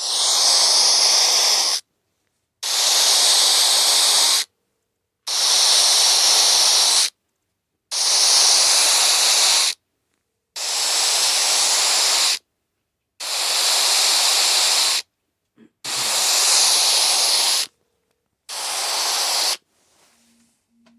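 A phone ringing with bursts of loud static hiss in place of its ringtone: eight bursts of about two seconds each, evenly spaced in a ring cadence, the last one shorter. There is a small click about two-thirds of the way through.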